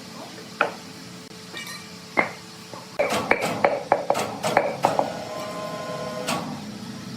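Irregular knocks and clatter: two single knocks, then a quick run of sharp strikes in the middle, followed by a faint ringing tone.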